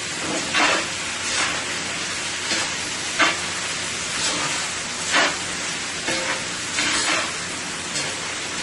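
Sliced chicken sizzling in a hot pan with sauce just added, while a spatula stirs and scrapes through it in short strokes roughly once a second.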